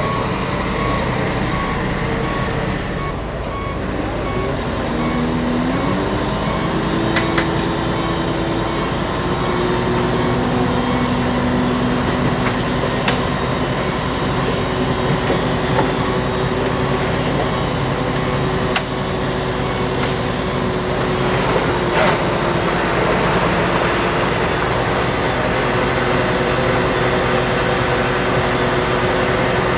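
Heavy diesel engine of earthmoving machinery running steadily under load; its pitch rises about five seconds in and then holds at the higher speed, with a few sharp knocks now and then.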